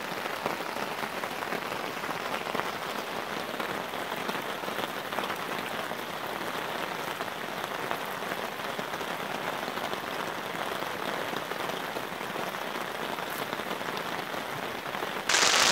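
Steady pouring rain falling on a nylon tarp overhead and the wet ground around it. Just before the end it abruptly gets much louder and brighter.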